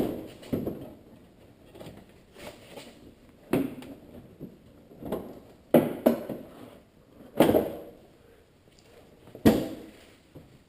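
Plastic front bumper cover of a 2001 Honda Accord being pulled loose and handled: a series of about seven irregular knocks and clunks, the loudest right at the start.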